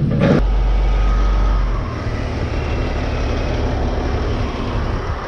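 A motor vehicle's engine running, with a heavy deep rumble from about half a second in until about two seconds in, then settling to a steadier running sound.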